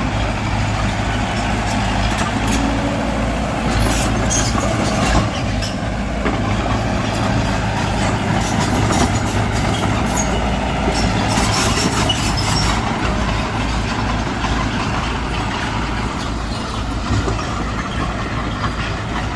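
Mitsubishi BD2G bulldozer's diesel engine running steadily under load. Sharp metallic squeaks and clanks come in clusters a few seconds in and again just past the middle.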